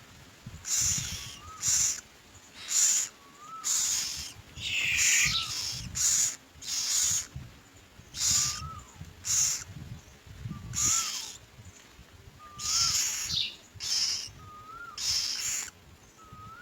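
Myna nestlings giving harsh, raspy begging calls in short hissing bursts, over a dozen in quick succession. A short whistled note that rises then falls repeats evenly about every second and a half underneath.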